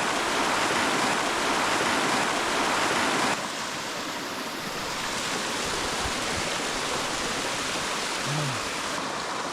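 Small waterfall pouring into a river pool: a steady rush of falling water that drops suddenly in level a little over three seconds in.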